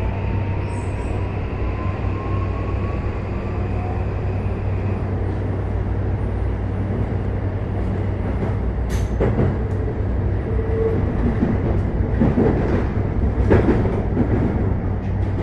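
Running sound inside a Toei 5500 series electric train car. The Mitsubishi full-SiC VVVF traction motors whine with a pitch that rises for the first few seconds as the train accelerates, over a steady rumble of the running gear. In the second half a few sharp clacks from the wheels on the track break in.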